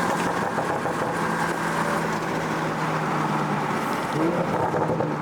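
Toyota Supra's engine running at a steady cruise with road noise, a constant drone. A brief rise in engine pitch comes near the end.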